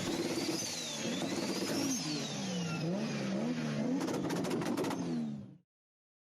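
Race car engines revving, their pitch rising and falling over and over as they accelerate and ease off, with a fast run of clicks about four seconds in. The sound cuts off suddenly near the end, leaving silence.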